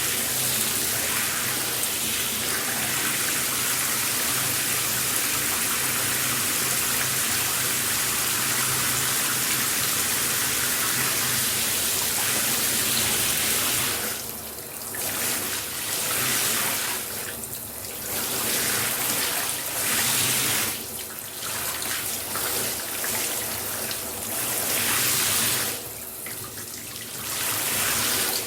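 Shower spray hissing steadily onto a surface. In the second half the sound dips and thins four times, briefly and unevenly, before returning to full strength.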